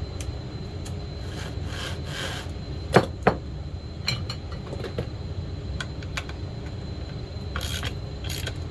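Tools and parts being handled on a workbench: scattered small clicks and short rubbing scrapes, with two sharp knocks about three seconds in, over a steady low hum.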